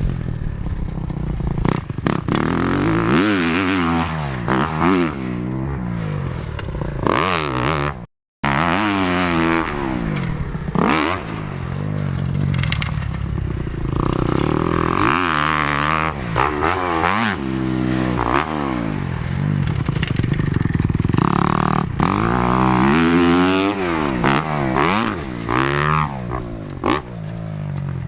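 Motocross dirt bike engine revving hard and backing off again and again while being ridden around a track, its pitch climbing and falling every second or two. The sound cuts out briefly about eight seconds in.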